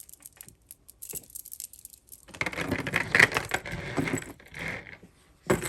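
Costume jewelry and glass beads clicking and rattling as pieces are handled. A few light clicks, then about two and a half seconds of busy clinking clatter, and a single click near the end.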